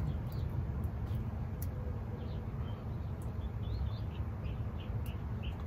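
A small bird chirping in short, separate notes over a steady low rumble.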